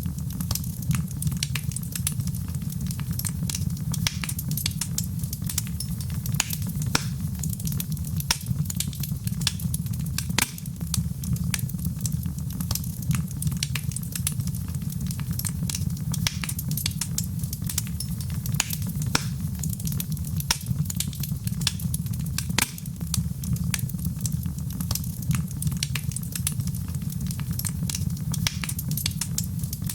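Wood fire burning in a fireplace: a steady low rumble of flames with frequent sharp crackles and pops, a few louder than the rest.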